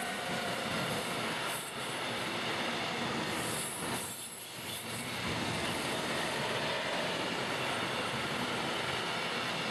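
Freight train of tank wagons rolling past close by: a steady rumble and rattle of wheels on the rails, dipping briefly about two seconds and four seconds in.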